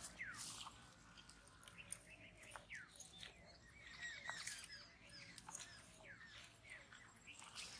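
Birds chirping faintly: many short, falling chirps, with a few light clicks among them.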